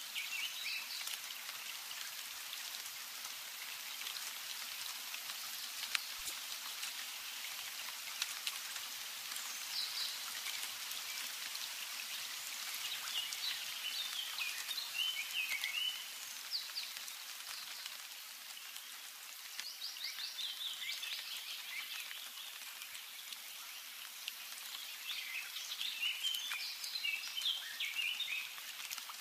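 Small birds chirping in short, quick twittering phrases, five or six times, over a steady background hiss.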